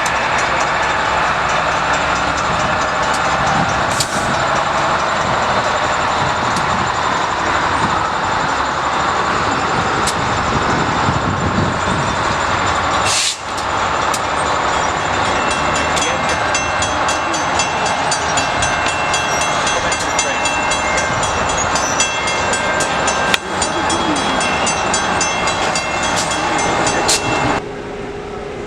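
A train rolling past close by: a steady loud rumble and rattle of railcars with scattered sharp clicks and knocks. The sound drops off abruptly near the end.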